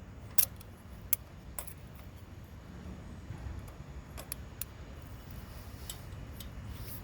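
Scattered sharp metallic clicks and taps of hand tools and metal parts as an ignition coil is set in place and bolted onto a small engine. A few fall in the first two seconds and more come later, over a low steady hum.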